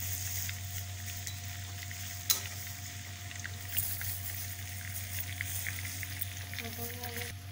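Stuffed brinjals sizzling in oil in a non-stick pan on a low flame, with scattered crackles, as they are turned with tongs. One sharp click comes about two seconds in. A steady low hum runs underneath.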